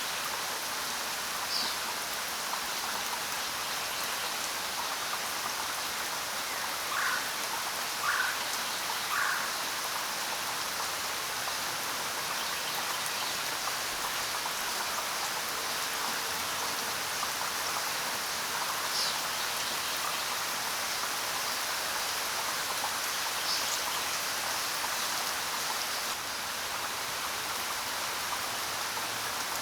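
Steady rain falling, an even hiss of drops. A bird calls three times about seven to nine seconds in, and a couple of brief high chirps come later.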